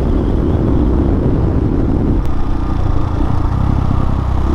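Hawk 250 dual-sport motorcycle's single-cylinder engine running steadily under way, mixed with wind and road noise. About two seconds in, the engine note settles into a smoother, even hum.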